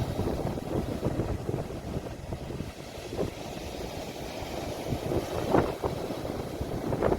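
Sea waves washing on the shore, with wind rumbling on a phone microphone. There are a few brief louder surges, two of them near the end.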